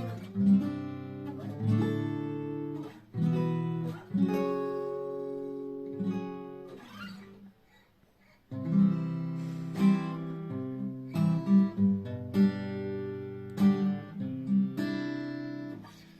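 Multiscale cutaway OM acoustic guitar (660–644 mm fanned-fret scale) being strummed, chords ringing out and decaying. About halfway through the playing stops for a moment, then resumes with rhythmic accented strums.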